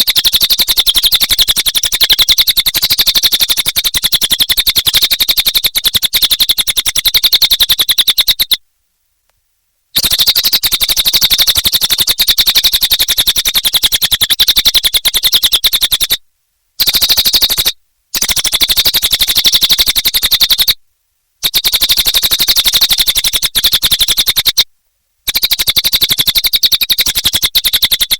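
Cililin (lesser racket-tailed drongo) song: a loud, high, rapid run of clicking chatter notes. It goes on in long stretches, cut by short silent breaks about every three to eight seconds.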